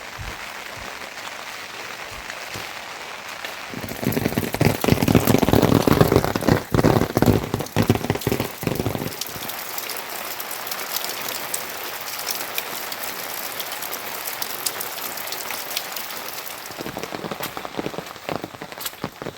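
Rain falling and pattering on a surface as many small drop hits. It is louder and heavier for about five seconds starting about four seconds in, then settles back to a steadier, lighter patter.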